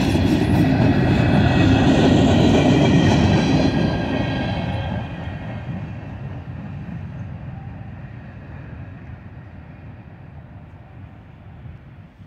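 A mixed freight train's last cars, covered hoppers on steel wheels, rolling past on the rails. The rumbling is loud for the first four seconds, then fades steadily as the end of the train moves away.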